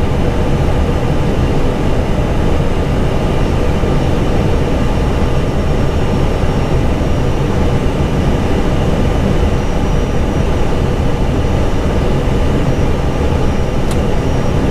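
Steady rush of airflow and engine noise inside an Airbus A320 cockpit on short final approach, with a faint click near the end.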